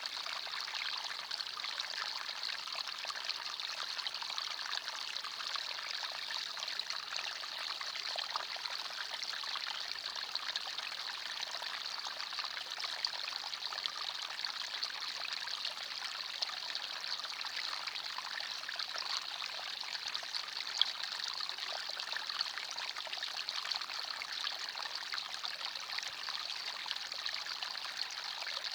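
Small forest stream running steadily over stones, a continuous trickling and splashing with no change.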